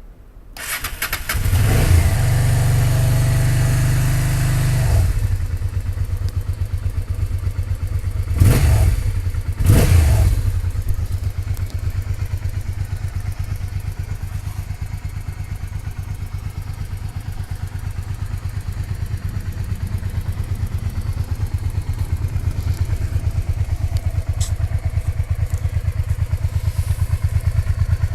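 Honda Bros Product 1's V-twin engine starting: it cranks and catches about a second in, runs at a fast idle, then settles to a lumpy, pulsing idle. It is revved twice briefly, rising and falling, before idling on.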